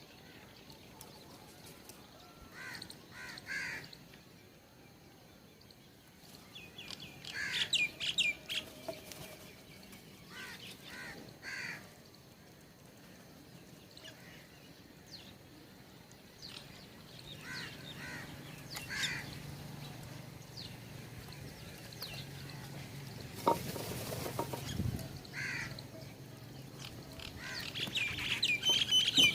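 Wild birds at a feeder calling and chirping in short, scattered bursts of high calls, with a low hum coming in about halfway through and a brief rush of noise a few seconds later.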